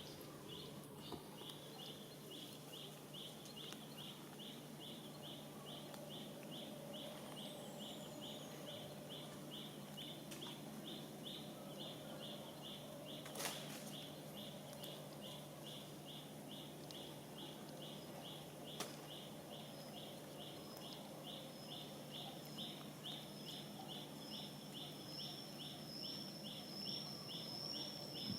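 Faint insects chirping: an even, high-pitched pulse repeating a few times a second, joined about two-thirds of the way in by a second insect's higher, wavering trill that grows louder. A steady low hum runs underneath, with a couple of brief clicks.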